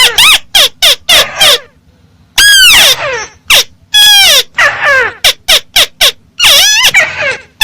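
Volume-boosted recording of the bird Vietnamese keepers call 'mắt xéo', played very loud: a rapid series of short, harsh, strident notes, many arching or dropping in pitch, broken by a brief pause about two seconds in.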